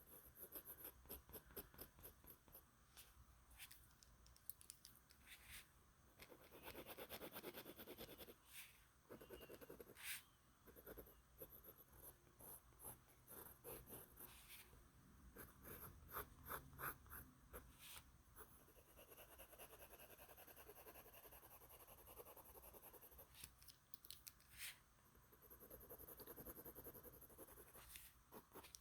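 Faint, irregular scratching of a white brush pen stroking across sketchbook paper, with occasional light taps and short pauses between strokes.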